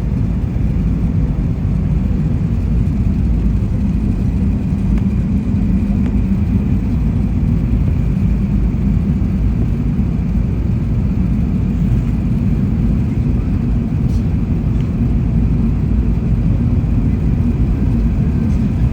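Steady low rumble of an airliner cabin in flight: engine and airflow noise heard from inside the cabin, with a faint steady high whine.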